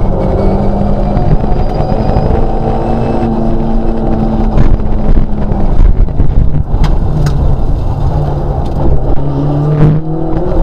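Škoda 130 LR rally car's rear-mounted four-cylinder engine running hard, heard from inside the cabin. Its pitch holds steady, falls about halfway through, and dips briefly near the end as with a gear change, with a few sharp clicks from the car.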